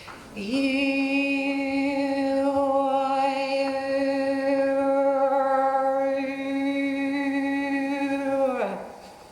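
A woman singing one long sustained note for about eight seconds. The voice slides up into the pitch at the start and falls away at the end, and the vowel shifts a couple of times while the pitch holds steady.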